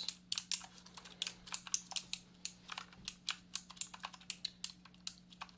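Computer keyboard typing: quick, irregular keystroke clicks, several a second, over a faint steady hum.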